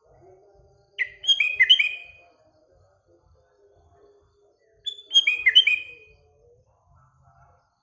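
Sooty-headed bulbul (kutilang) singing: two short song phrases about four seconds apart, each a quick run of clear notes.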